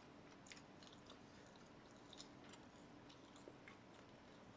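Faint chewing, with a few soft, scattered mouth clicks.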